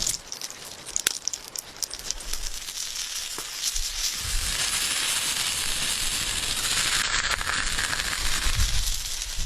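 Crackling and hissing with scattered sharp clicks, from food cooking on a hot stone; the hiss grows fuller about halfway through.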